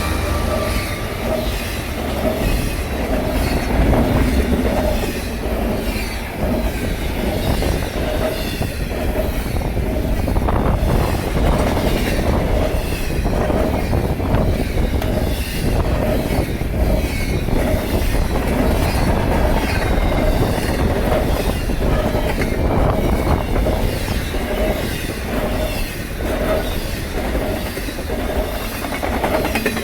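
Intermodal freight train rolling past, a steady rumble of wheels on rail with regular clicking as the wheels pass over rail joints.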